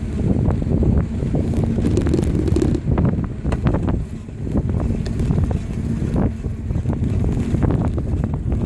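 Wind buffeting the microphone while riding a bicycle, a steady low rumble with scattered clicks.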